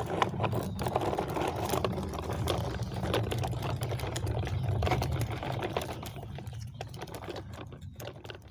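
An engine running with a rapid mechanical clatter over a steady low rumble, fading near the end.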